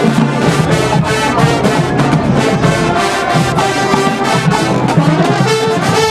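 Marching band brass section playing loudly, with trombones and trumpets over steady drumline percussion.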